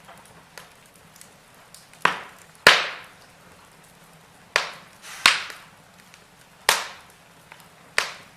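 Firewood burning in a fireplace, crackling: six sharp pops, the loudest about two and a half seconds in, with smaller ticks between them over a faint steady hiss.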